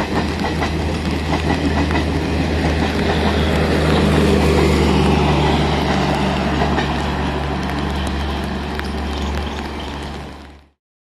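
An express train's passenger coaches rolling past, their wheels clattering over the rail joints over a steady low hum. The sound cuts off abruptly near the end.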